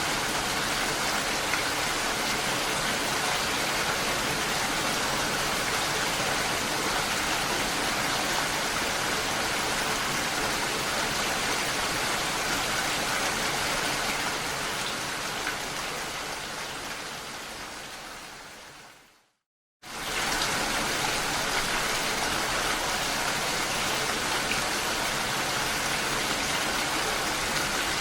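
Steady hiss of rain mixed with rushing water. About two-thirds of the way through it fades away over a few seconds to a moment of silence, then comes back suddenly at full level, the join between two looped recordings.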